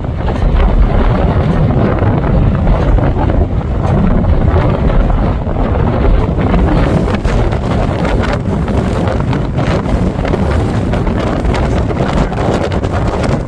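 Strong gusty wind buffeting the microphone as a severe thunderstorm's shelf cloud and gust front pass overhead.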